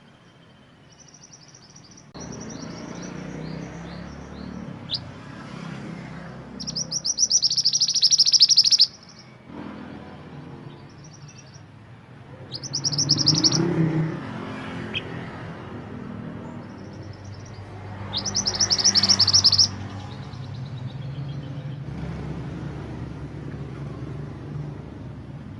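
Mantenan gunung songbird singing: short high phrases, with three loud, rapid, high trills about 7, 13 and 18 seconds in, over a low background rumble.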